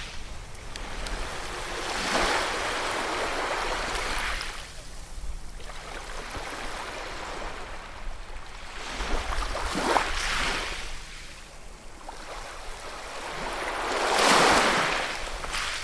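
Ocean waves breaking and washing on the shore: three surges about four to five seconds apart, the last and loudest near the end, over a low steady rumble of surf.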